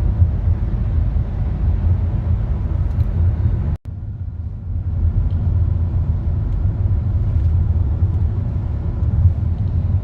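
Steady low road and engine rumble inside a moving car's cabin. The sound drops out abruptly for an instant about four seconds in.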